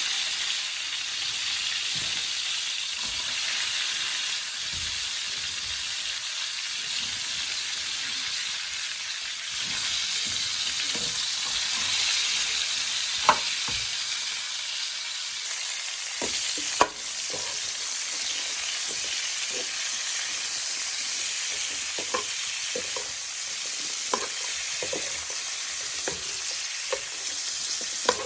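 Steady sizzling hiss with scattered crackling pops, a couple of them louder than the rest.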